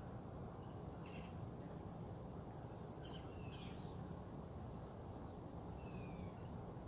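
A few short bird calls, chirps and brief falling whistles, over a steady low outdoor background rumble.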